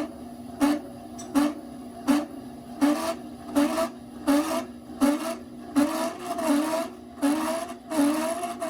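Bone grinder with a fiber-cutting head running with a steady motor hum, its cutter scraping into a piece of cortical femur bone in a regular rhythm of about three bites every two seconds, the bites growing longer near the end. The bone is pressed against the cutter by a pneumatic push cylinder at about 40 psi.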